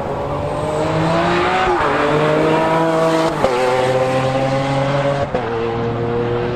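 Sports car engine accelerating hard through the gears. Its pitch climbs steadily and drops suddenly at three upshifts: just under 2 seconds in, about 3.5 seconds in, and about 5.3 seconds in.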